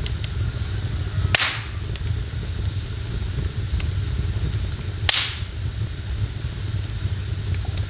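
Wood fire in a fireplace crackling, with two loud pops, about a second in and about five seconds in, each followed by a short hiss, and a few faint ticks, over a steady low rumble.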